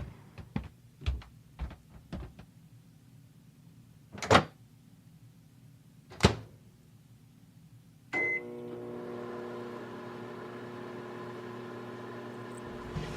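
A run of soft taps, then two loud clunks, then a short high beep as a microwave oven is started. It then runs with a steady hum, heating a bear-shaped heatable water bottle.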